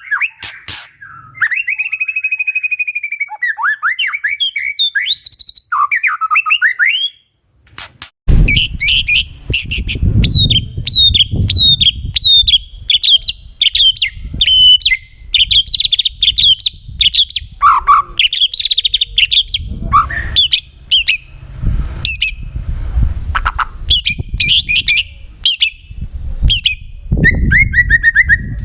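White-rumped shama singing loudly: varied whistled, gliding phrases, a brief pause about seven seconds in, then a long run of fast, sharp chattering notes over a low rumble.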